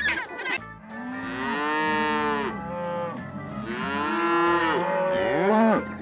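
Cow mooing twice: two long, drawn-out moos, each rising and falling in pitch.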